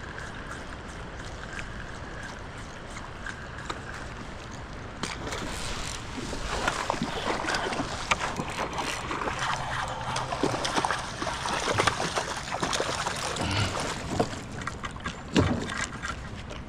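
Water splashing and sloshing against a kayak, growing louder and busier about five seconds in with many irregular splashes and knocks.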